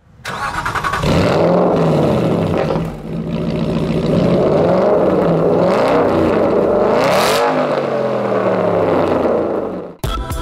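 Aston Martin Vantage GT8's 4.7-litre V8 running and being revved: several rising and falling blips, the highest about seven seconds in. It cuts off suddenly near the end.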